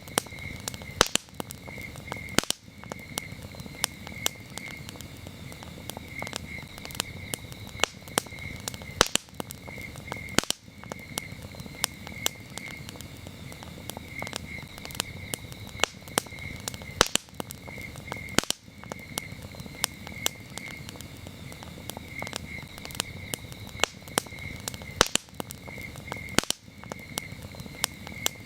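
A campfire crackling, with sharp pops scattered through it over a low steady rush of burning. Crickets chirp behind it in a steady, high, pulsing trill.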